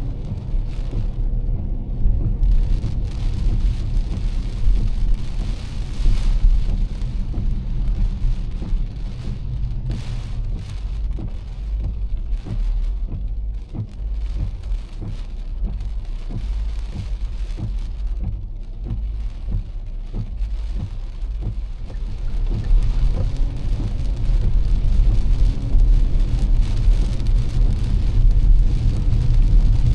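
Heavy rain falling on a moving car, over a steady low rumble of tyres on wet road. The rumble grows louder over the last several seconds.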